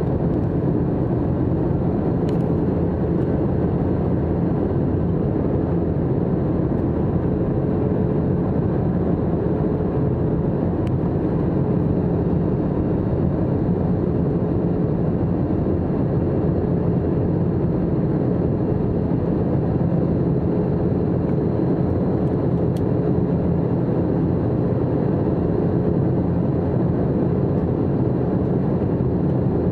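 Airbus A321-200 passenger cabin in flight: the steady hum and rush of the jet engines and the airflow, with a few faint clicks.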